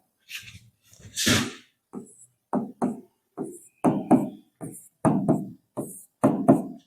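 A pen writing: a quick series of short scratching strokes, about two a second.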